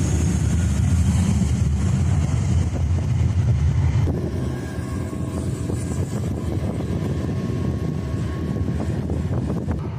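Airliner's low rumble, loudest for the first four seconds, then easing a little and steadying.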